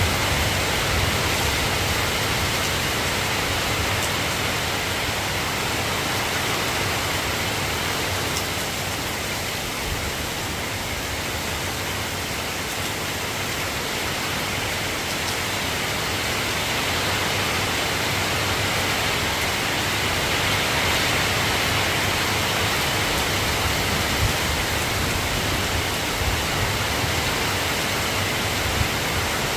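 Soft rain falling steadily, an even hiss with a few faint taps near the end.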